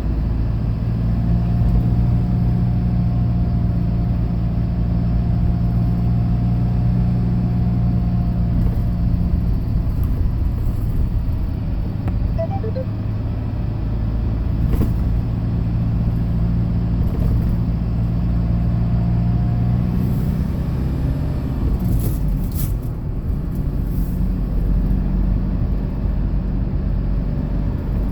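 Hyundai Porter II box truck driving, its engine and road noise a steady low hum from inside the cab. The engine note shifts around ten seconds in and again around twenty seconds.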